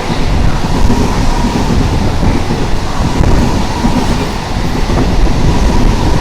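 Train passing close at speed: a loud, steady rumble of wheels on the track, with a faint steady whine over it.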